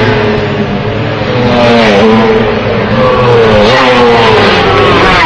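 Several classic two-stroke racing motorcycles at high revs. The engine notes overlap and rise and fall in pitch as the riders shift gears and pass, with noticeable drops about two seconds in and again near the middle.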